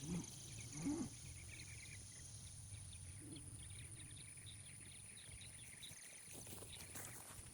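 A cow gives two short low calls near the start, then small birds chirp faintly. Footsteps in the grass begin near the end.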